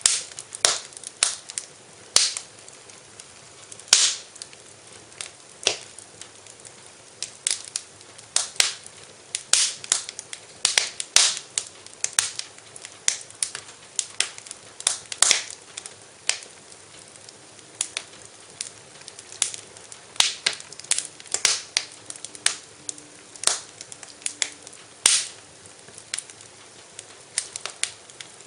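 Wood fire in a fireplace crackling: irregular sharp pops and snaps, often a few each second, over a soft hiss.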